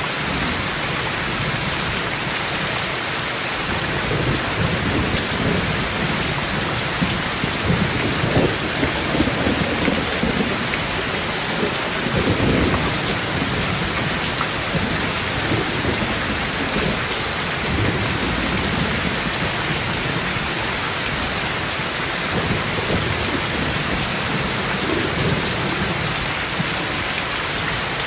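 Steady rain falling with rolling thunder rumbling through it in several long swells, the strongest about a third of the way in.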